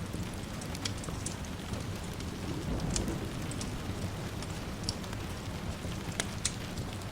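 Steady rain with a low rumble of distant thunder swelling about three seconds in, and a few scattered sharp pops.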